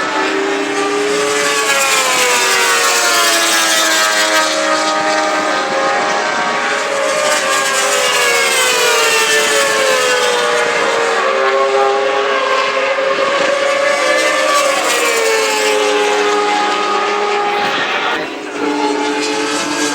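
Several superbike racing motorcycles running at high revs together, their engine notes overlapping and sliding up and down in pitch through gear changes and as they pass. The sound eases briefly near the end.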